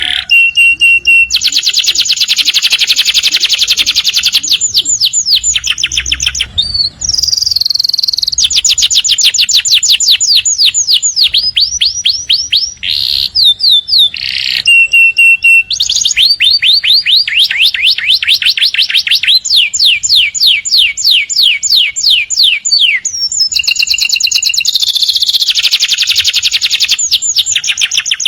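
Domestic canary singing a long, unbroken song of fast trills, each note repeated many times a second, switching to a new trill every few seconds.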